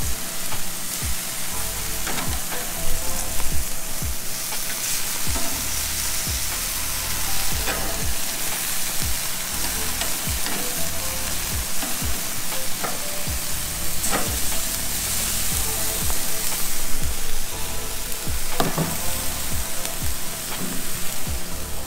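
Chicken searing over high heat, sizzling steadily, with occasional sharp ticks and pops.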